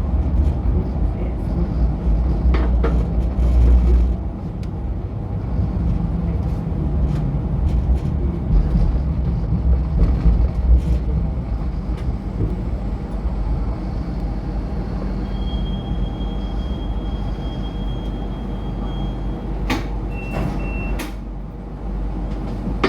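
MTR Light Rail train running, a steady low rumble that is heaviest in the first few seconds. In the second half a steady high tone sounds for about four seconds, followed by a short beep and a few sharp clicks.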